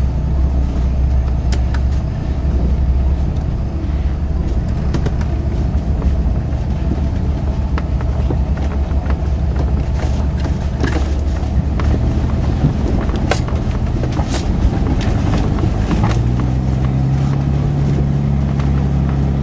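1989 Jeep Cherokee engine running steadily at low speed, heard from inside the cab, with occasional sharp knocks from the body. About sixteen seconds in, the engine note rises and holds higher as the Jeep pulls up a slope.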